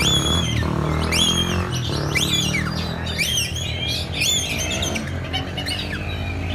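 Caged songbirds singing loud, quick whistled phrases with rising and falling sweeps, busiest for the first four seconds or so and then thinning out, over a steady low hum.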